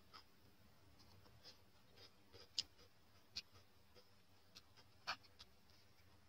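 A person chewing crusty bread: a handful of short, soft crunches and mouth clicks spread irregularly over near silence.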